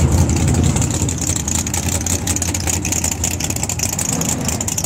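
Naturally aspirated drag-race V8 idling at the starting line with a loud, steady, choppy rumble, a little quieter from about a second in.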